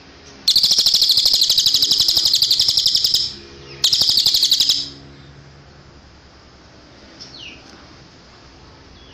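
Cililin (little spiderhunter) song: a loud, fast trill of rapidly repeated high notes lasting about three seconds, then a second, shorter trill after a brief pause. A few faint falling notes follow a few seconds later.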